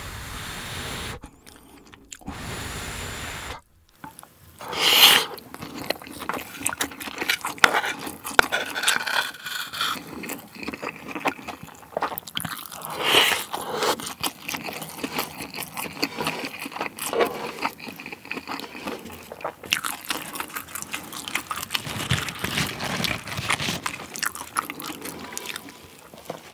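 Close-miked chewing of a mouthful of fried rice with seaweed flakes: wet, crackly bites, with a wooden spoon scraping rice across a metal grill pan.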